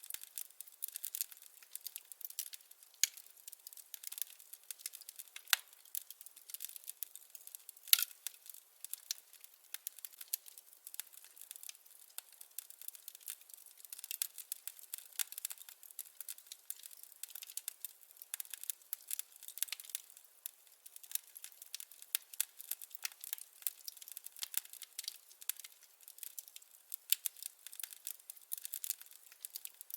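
Wood fire crackling: a dense run of small pops and snaps, with one louder pop about eight seconds in.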